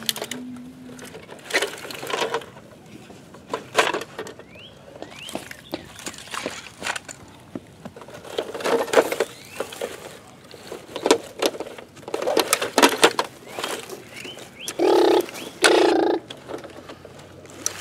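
Toy trucks being pushed and scraped through grass and dirt: irregular rustling and scraping bursts. Two short, steady sounds about a second long come near the end.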